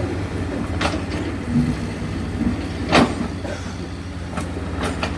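Heavy diesel engine running steadily, with sharp metallic clanks and knocks about a second in, a louder one at about three seconds and a few more near the end.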